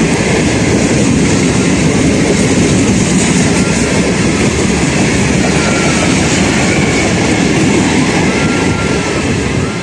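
Passenger train running through a station: steady, loud rumble and clatter of coach wheels on the rails, with faint high wheel squeal coming and going in the second half.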